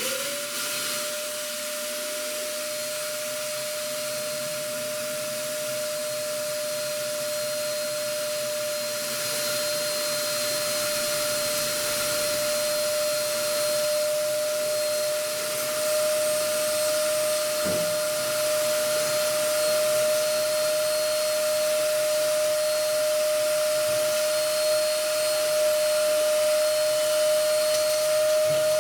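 MASKO 1000 W ash and fireplace vacuum cleaner with a 20-litre stainless steel tank, its motor spinning up right after being switched on and then running steadily with a high whine over the rush of air.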